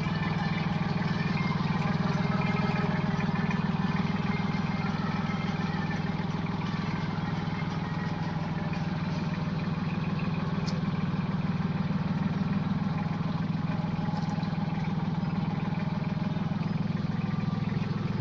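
Sonalika 26 hp mini tractor's diesel engine running steadily at an even speed.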